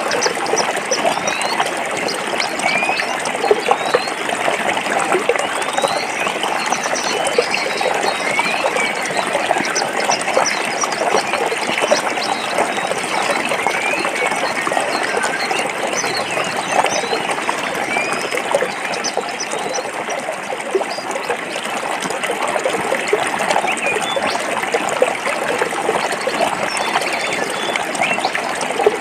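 Stream water flowing and trickling over rocks: a steady, even babble with many short, high-pitched plinks scattered through it.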